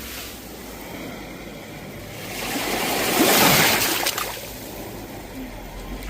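Sea waves breaking on the shore: the surf swells about two seconds in, is loudest around the middle, and washes back down, with the next wave building near the end.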